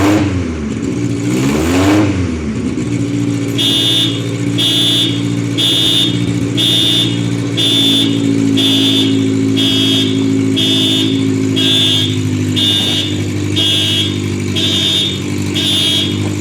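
Honda B20B inline-four, freshly swapped into a Fiat Uno and running for the first time, is blipped twice, then settles to a steady idle. From about four seconds in, a high electronic beep repeats about once a second over the idle.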